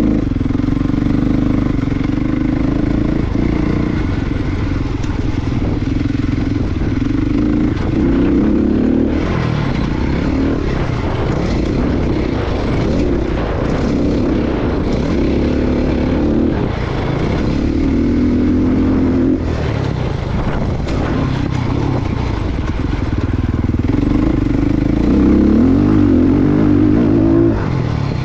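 Motocross dirt bike engine running hard as it is ridden round a track. The pitch climbs and drops again and again with throttle, gear changes and backing off for turns.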